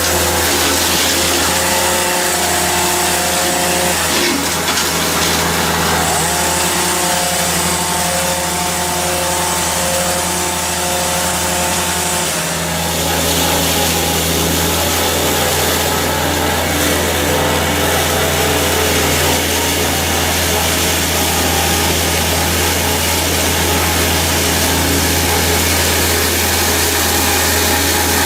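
Heavy tree-felling machine's engine running steadily, with a pitched whine above the low hum that changes about six seconds in and again about twelve seconds in.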